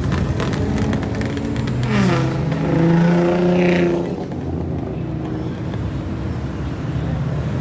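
Car engines and a motorcycle passing close by in traffic, one engine revving up about two seconds in and holding a loud note until about four seconds, with a rapid crackle in the first second.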